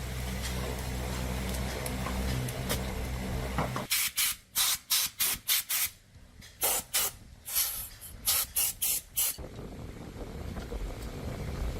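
A steady low hum, broken about four seconds in by a run of about a dozen short bursts of pressurised spray hiss over some five seconds, after which the hum returns.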